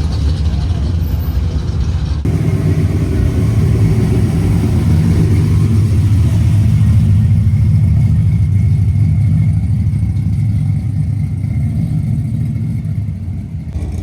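Car engine and exhaust rumbling at low cruising speed. The deep rumble swells a little around the middle and eases off near the end.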